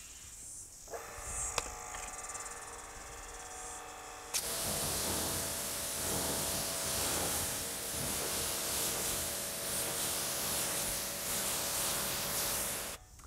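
Domestic electric pressure washer: a steady hum, then about four seconds in the jet starts with a loud, even hiss of high-pressure water spraying onto the car, carrying on until it cuts off just before the end.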